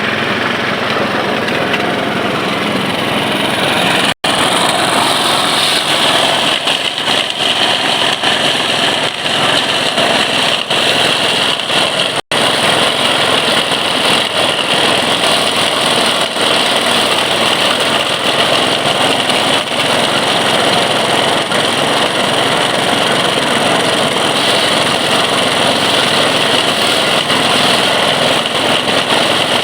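Engine-driven rice thresher running steadily, with a small engine and its threshing drum sounding together. The sound cuts out for an instant twice, about four and twelve seconds in, and is harsher after the first cut.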